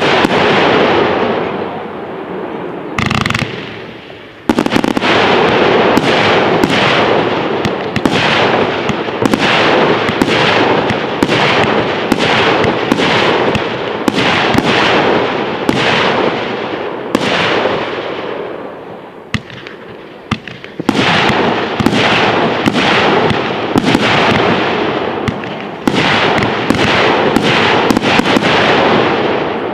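Fireworks display: a dense, rapid barrage of bangs and crackles from exploding shells, easing briefly a few seconds in and again about two-thirds of the way through before building back up.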